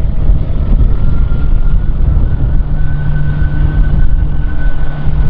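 Strong wind buffeting the microphone, with the steady whine of a jet airliner's engines running underneath, the whine rising slightly in pitch about a second in.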